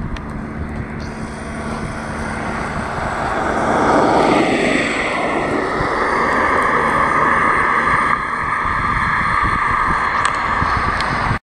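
Airplane engines passing close by. The noise builds, its pitch drops as the aircraft goes past about four to five seconds in, and then it runs on steadily before cutting off suddenly near the end.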